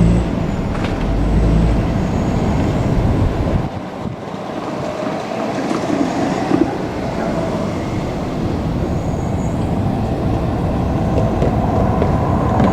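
JR Kyushu 817 series electric multiple unit running past on the rails, with the continuous noise of its wheels on the track.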